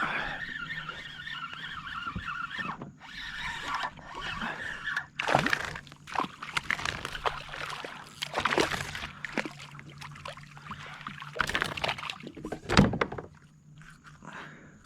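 Water splashing and sloshing in irregular bursts, the loudest about thirteen seconds in: a hooked ladyfish thrashing at the surface beside a kayak.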